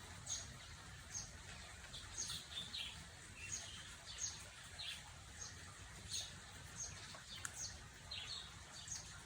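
A small bird chirping repeatedly: short, high, downward-sliding chirps about once or twice a second, over a low steady hum.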